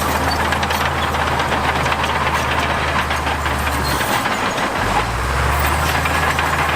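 Diesel engine of heavy earthmoving machinery running with a steady low hum, over clattering and knocking. The engine note dips and settles lower about four seconds in.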